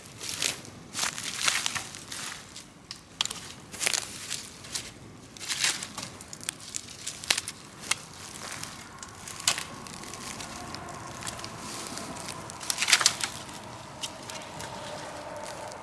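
Large open bonfire of cut trees and brush crackling, with irregular sharp pops and snaps. A faint steady whistle comes in about nine seconds in.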